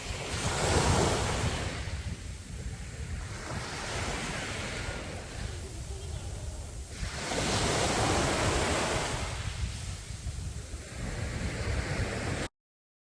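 Sea waves breaking on a beach, the wash swelling as a wave comes in about a second in and again around seven seconds in, over a steady low rumble of wind on the microphone. The sound cuts out completely for a moment near the end.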